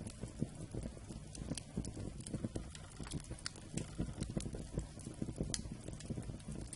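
Wood campfire burning and crackling: frequent irregular sharp pops over a dense, low crackle and rumble of the flames.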